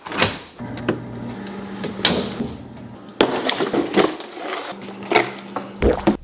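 A run of knocks, clicks and clattering, like objects being handled and set down, over a steady low hum.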